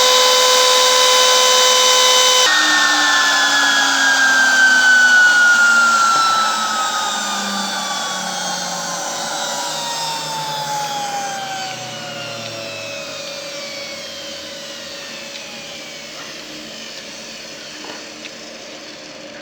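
CNC router spindle whining at a steady high speed, then switched off about two and a half seconds in. Its whine falls slowly and evenly in pitch and fades as the spindle spins down.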